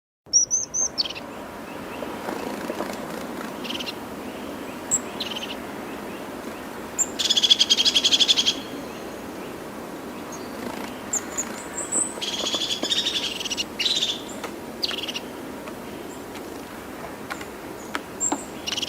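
Birds calling: scattered short high chirps and two rapid rattling trills, the louder one about seven seconds in and lasting over a second, the other about twelve seconds in. A steady low hiss runs underneath.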